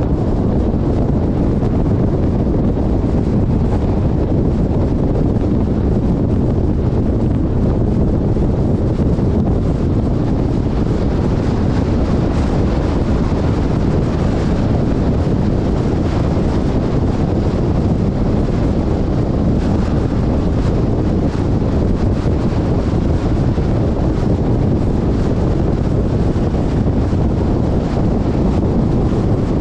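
Steady low rumble of wind buffeting the camera's microphone on a moving off-road vehicle, with no distinct events.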